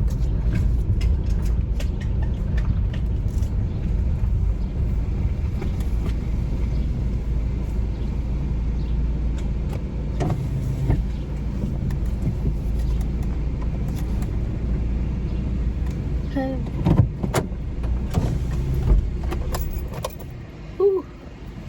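Car cabin noise while driving slowly to park: a steady low engine and road rumble, with a few sharp clicks and knocks. The rumble falls away near the end.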